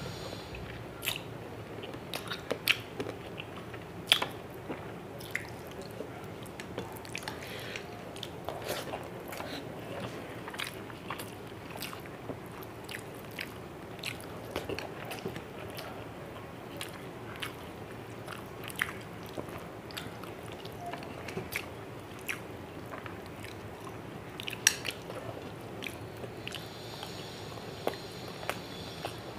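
Close-miked chewing and mouth sounds of someone eating rice and fish curry by hand: irregular wet clicks and smacks, one to a few a second.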